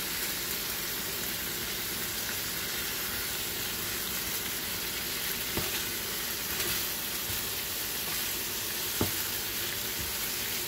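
Cubes of sous-vide-cooked ground beef sizzling in butter in a nonstick frying pan, with the scrape and tap of spatulas turning them. There is a sharper tap about nine seconds in.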